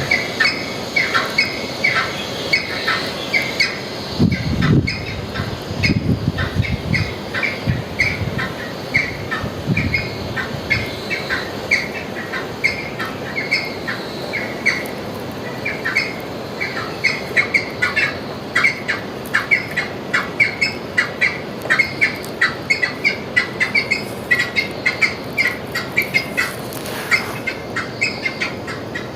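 Birds calling over and over with short high calls, several a second, with a few low rumbling thumps between about four and ten seconds in.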